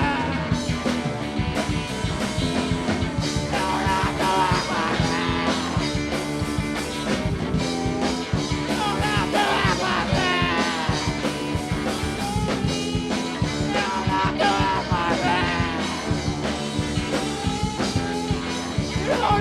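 Live rock band playing a song: electric guitar over bass and drums, with a steady beat and a lead line that bends in pitch.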